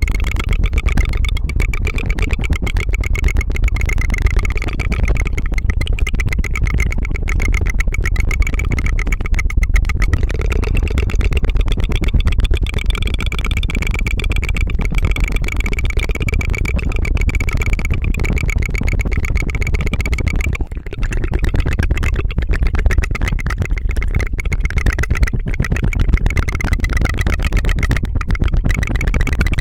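ASMR tongue fluttering close to the microphone: a rapid, continuous trilling rattle of the tongue, with a short break about two-thirds of the way through.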